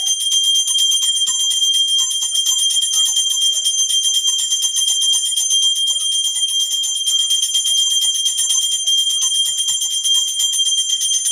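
Puja hand bell rung rapidly and continuously, a steady high ringing tone pulsed by many quick strokes a second.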